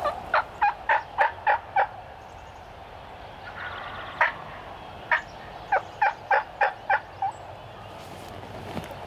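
Turkey yelping: a run of six quick yelps, a single yelp, then another run of about seven, each note short and dropping in pitch at its end.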